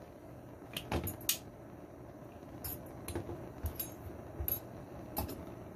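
Light metallic clinks and taps, about a dozen scattered irregularly, as small metal parts are handled and knocked together.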